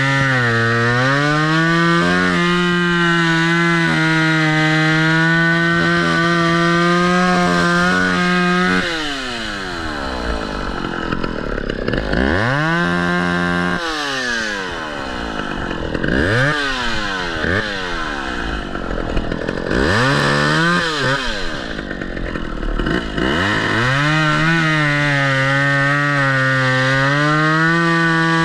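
Two-stroke chainsaw cutting fallen trees. It is held at high revs for the first third. It then drops toward idle and is revved back up several times, before being held at high revs again near the end.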